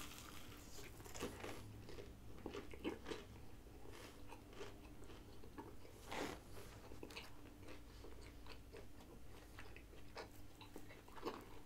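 A person chewing a mouthful of a crispy fried chicken sandwich with glazed donut buns: faint, irregular crunching and small chewing clicks, with one louder crunch about six seconds in.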